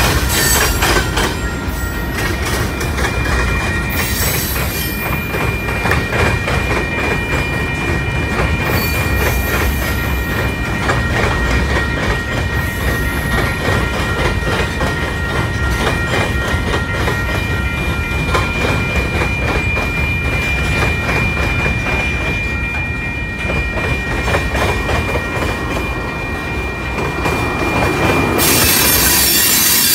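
Freight train of covered hoppers and tank cars rolling past at close range: steel wheels clack steadily over the rail joints, with a steady high squeal from the wheels through most of it. A louder rushing hiss sets in near the end.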